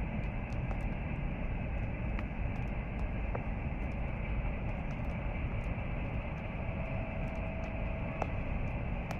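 Campfire crackling with scattered sharp pops and ticks over a steady low rumble. A brief steady tone sounds for about a second and a half near the end.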